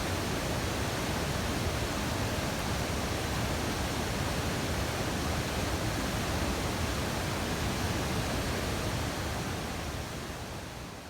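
Steady rushing of a mountain stream, an even noise that fades out near the end.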